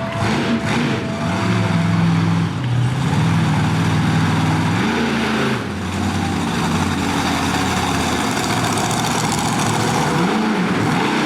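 Monster truck engine running hard and revving, its pitch climbing about five seconds in and rising and falling again near the end.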